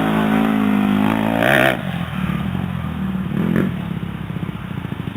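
Dirt bike engine running at steady revs, then briefly revving up with a loud burst about a second and a half in. After that it drops to a lower, uneven note as the throttle eases off.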